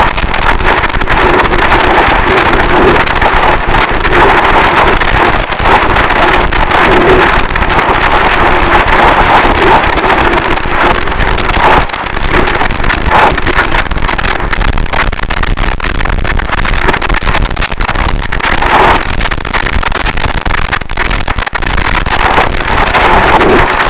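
Harsh noise wall music: a loud, unbroken wall of distorted static with a constant dense crackle, strongest in the middle range, shifting only slightly throughout.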